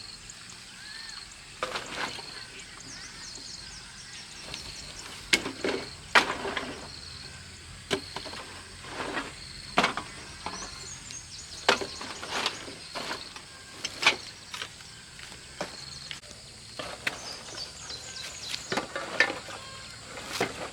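Irregular knocks and clatters, a dozen or so sharp hits spread unevenly, with a faint high chirp repeating about twice a second behind them.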